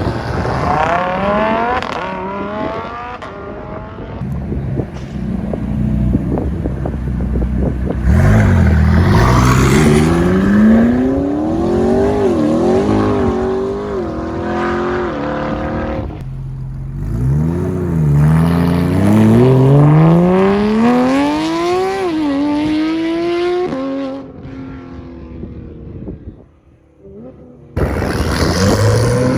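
High-performance sports car engines accelerating hard, the engine note climbing and then dropping sharply at each upshift, in several separate passes. There is a quieter stretch near the end before another loud engine comes in.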